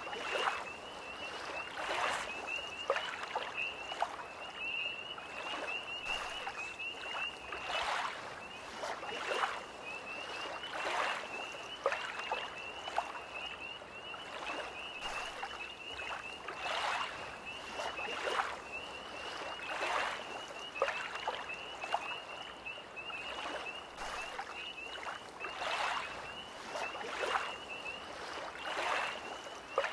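Small lake waves lapping at the shore every second or two, over a continuous high-pitched trilling chorus of tree frogs.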